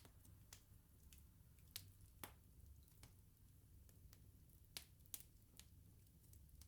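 Wood bonfire crackling: scattered sharp pops and snaps at irregular intervals, the loudest about two seconds and five seconds in, over a steady low rumble of the burning fire.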